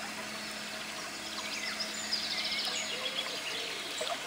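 Birds chirping and calling, with a rapid high trill in the middle, over a steady low hum and an even background hiss.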